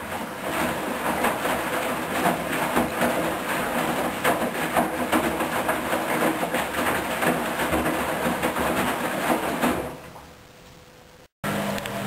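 Hoover DYN10124DP front-loading washing machine running its softener rinse, water and laundry sloshing in the turning drum with a low motor hum; the sound dies down near the end as the rinse finishes before the final spin.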